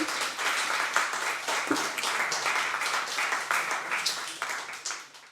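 Audience applauding, many hands clapping, which thins out and fades away near the end.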